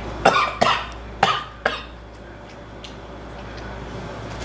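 A man coughing four times in quick succession, harsh short coughs over about a second and a half, then stopping. The coughing is set off by very hot, spicy seafood sauce.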